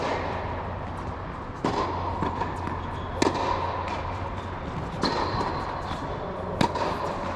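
Tennis balls being hit in a drill: a sharp pop about every second and a half, with fainter knocks in between, over a steady low hum.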